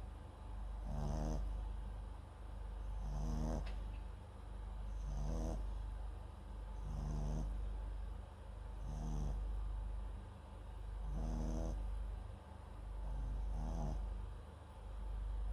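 A small Papillon–Japanese Chin mix dog snoring in its sleep: a short snore about every two seconds, seven in all, close to the microphone.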